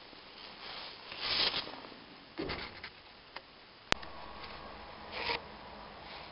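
Valve lapping on a Peugeot 206 1.1 petrol cylinder head: short gritty scrapes of a valve being turned on its seat with grinding paste, with a dull knock and a sharp click in between.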